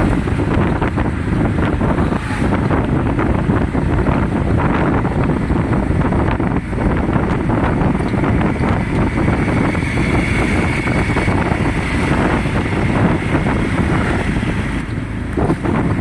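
Wind buffeting the microphone: a loud, steady low rumble and rush with no pauses.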